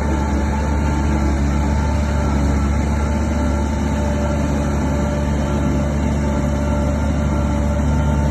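Heavy construction machine's diesel engine running steadily with a low, even drone and no change in pitch.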